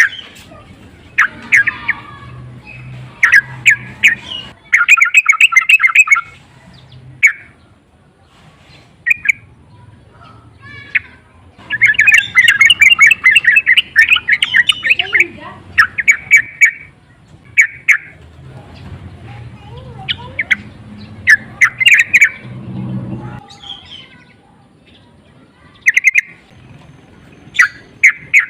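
Yellow-vented bulbul (trucukan) singing its excited, provoking breeding song. It comes in bursts of quick, bubbly chirps with pauses between phrases, and the longest, densest run falls near the middle.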